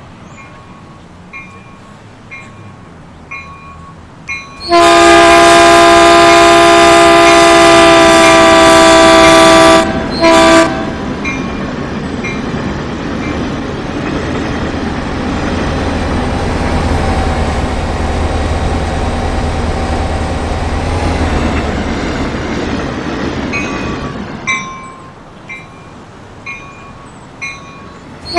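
A passing Caltrain train sounds its horn as a loud chord, first one long blast of about five seconds and then a short one. The rumble and rush of the train passing then builds and fades away. Before and after the train, a bell dings about once a second, and the horn starts again at the very end.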